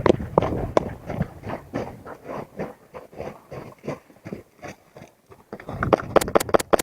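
Footsteps on hard ground, about three a second, growing fainter, then near the end a quick burst of about six sharp cracks from airsoft gunfire.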